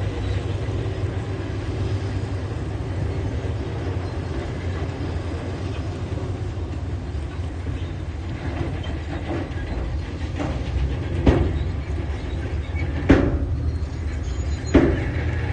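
Diesel engine of a tracked earthmoving machine running steadily, with track clatter and three sharp metal clanks near the end.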